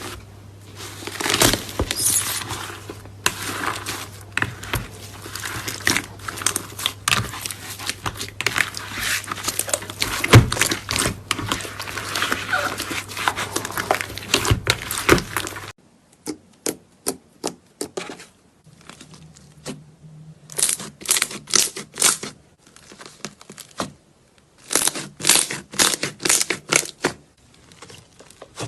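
Slime being squeezed and worked by hand, making dense crackling and popping. About halfway through the sound changes abruptly to sparser pops and crackles in short bursts.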